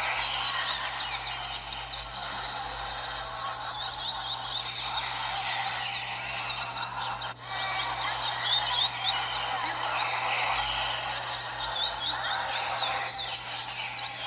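Many double-collared seedeaters (coleiros) singing at once: a dense, unbroken chorus of rapid, high chirping phrases overlapping one another, with a brief drop in loudness about seven seconds in.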